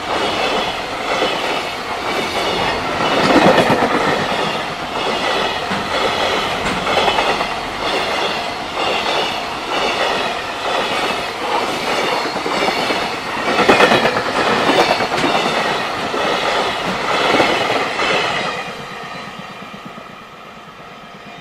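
Long freight train of container flatcars passing close by, its wheels clattering in a steady clickety-clack over the rail joints. Near the end the last wagon goes by and the sound dies away.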